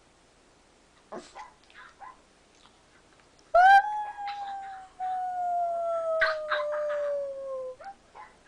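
A dog howling: one long howl of about four seconds, starting about midway, that rises briefly and then slides slowly down in pitch. A few faint short sounds come before it.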